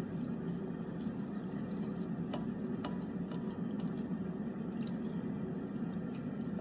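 A person eating quietly, with soft squishy chewing and a few light clicks, over a steady low hum.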